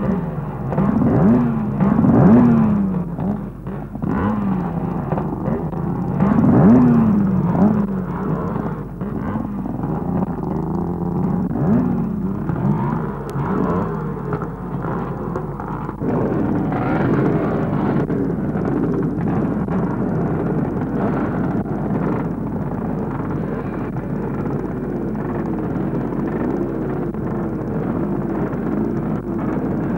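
Several scramble motorcycle engines revving, throttles blipped in repeated rising and falling bursts. About halfway through, many bikes rev together in a denser, steadier din.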